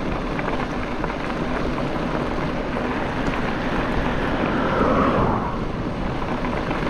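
Wind rushing over the microphone and rolling noise from an electric mountain bike being ridden, with a low steady hum underneath. The rush swells about four to five seconds in.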